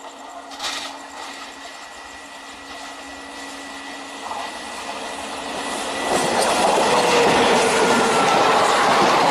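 WAP7 electric locomotive and its ICF passenger coaches approaching at speed and passing close by. The train noise grows steadily louder, with a short burst of noise about half a second in, and becomes a loud rush from about six seconds in as the locomotive and coaches go past.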